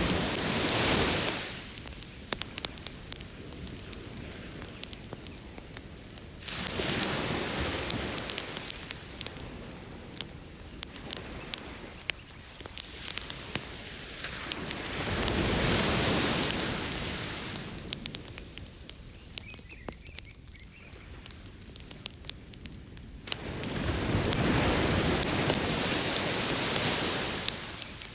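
Beach campfire crackling with frequent small pops, over ocean waves washing ashore. The surf swells up and falls away about every eight seconds, four times.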